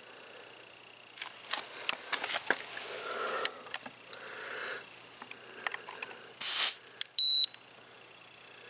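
Tire valve stem hissing briefly as a digital tire pressure gauge is pressed onto it, followed by a single short beep from the gauge as it takes its reading. Small handling clicks come before.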